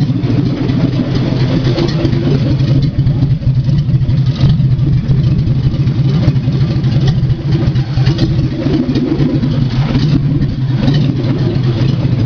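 Ford Maverick's engine idling steadily and rumbling loudly while it warms up.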